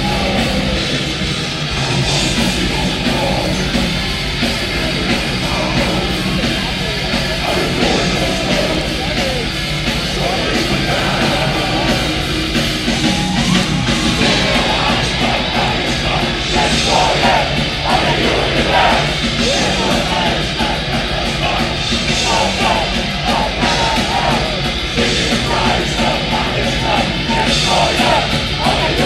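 Melodic death metal band playing live at full volume: heavy guitars and drums with a shouted, growled vocal.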